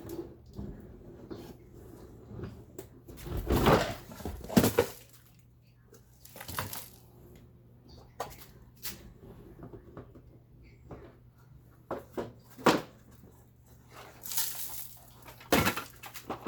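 Vacuum cleaner parts being handled: irregular knocks and short scraping rustles, the loudest clusters about four seconds in and near the end, over a faint steady low hum.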